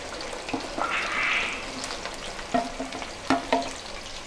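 Cut okra going into hot oil in a steel kadai, the oil sizzling steadily and surging louder about a second in as the pieces hit it. In the second half a wooden spatula knocks against the pan three times, each with a short metallic ring.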